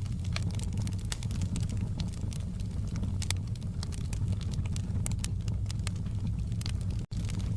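Campfire burning: wood crackling with many irregular sharp pops over a steady low rumble of the flames. The sound cuts out for an instant about seven seconds in.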